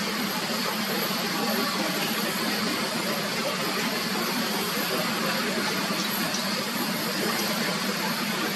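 Steady noise of a jet airliner's engines, an even rush holding at one level, with a thin high whine over it.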